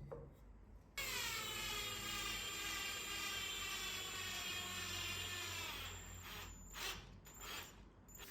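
A small handheld power tool's electric motor starts suddenly about a second in and runs steadily for about five seconds, its pitch dropping slightly as it settles. A few short knocks follow near the end.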